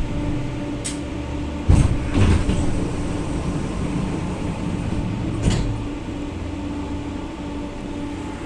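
Tram interior while riding: a steady low rumble with a constant hum, broken by a few sharp knocks and rattles, the loudest about two seconds in.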